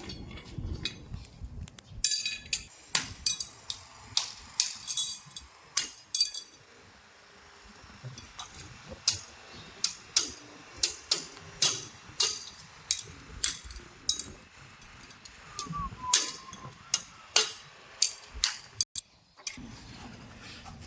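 Farrier's steel tools working a horse's hoof: a long run of sharp metallic taps and clinks, irregular at first and then coming roughly one or two a second.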